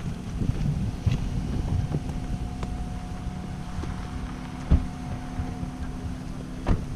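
Wind buffeting the microphone with a low rumble, under a faint steady hum that fades out shortly before the end, and two sharp knocks in the second half.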